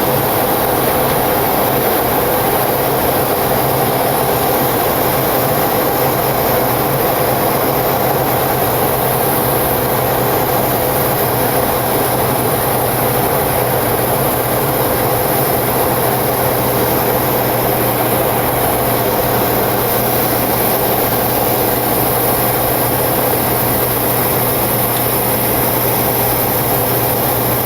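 Steady flight-deck noise of a Boeing 727-200 climbing at climb thrust: the three JT8D turbofans and the rush of air past the cockpit, with a steady low hum underneath.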